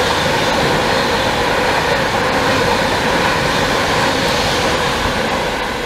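Class 390 Pendolino electric train running through the platform at speed: a loud, steady noise of wheels on rails and rushing air as the carriages pass close by, easing off slightly near the end.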